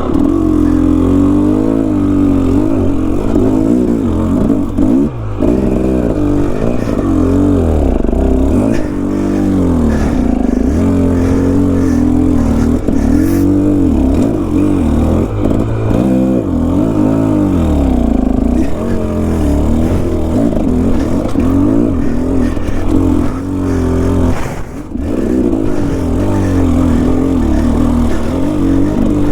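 Enduro motorcycle engine running under constantly changing throttle, its pitch rising and falling every second or two, with a short lull about three-quarters of the way through.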